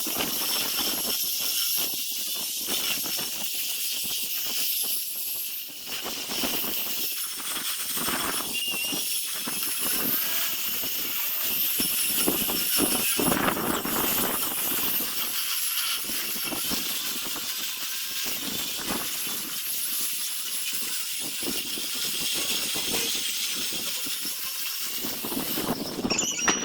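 Power sanding tool running against zelkova root wood: a steady high hiss with a motor whine. It cuts off just before the end.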